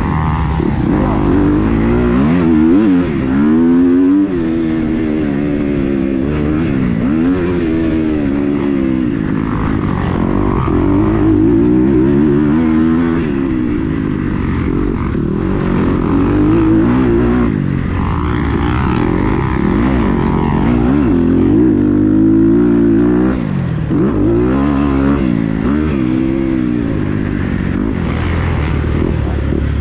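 Kawasaki KX250 motocross bike's engine being ridden hard, its pitch climbing and dropping over and over as the throttle is opened and closed through the gears.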